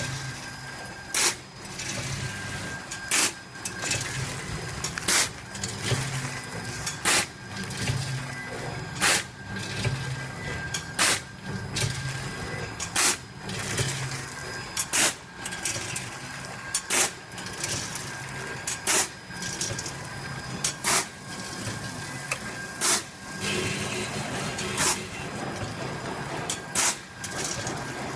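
Automatic popcorn packaging machine running through its cycle: a sharp click about every two seconds, with fainter clicks in between, over a steady mechanical hum and a thin steady tone.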